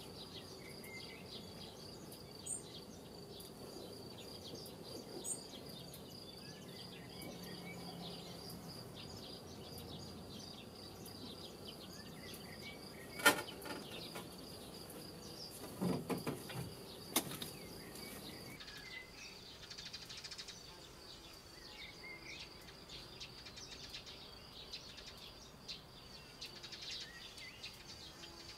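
Female golden oriole landing at the nest: one sharp knock about 13 seconds in, then a few low thumps and bustling of wings around 16 to 17 seconds, over a steady high insect trill. Short, high bird chirps come scattered through the later part.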